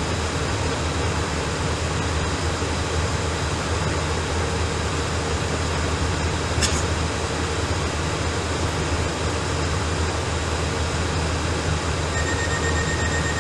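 Steady cabin noise of an Airbus A319 in flight, airflow and engine hum with a low drone. A faint steady tone starts near the end.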